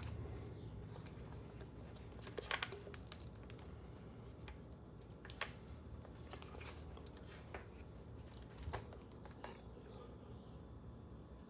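Faint scattered clicks and short plastic rattles of RC car parts being handled and worked loose during disassembly, over a low steady room hum.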